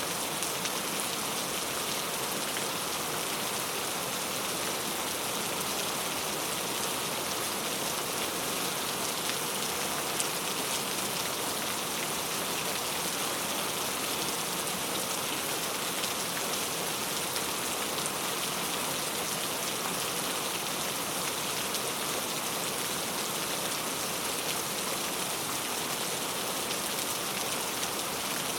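Steady rain falling, a continuous even hiss with fine scattered drop patter.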